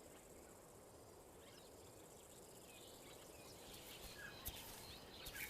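Faint, quiet bush ambience with scattered small bird chirps and insects, getting a little busier from about three seconds in.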